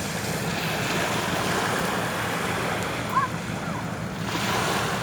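Sea surf washing steadily onto the shore, with wind rumbling on the microphone. A brief high squeak sounds about three seconds in.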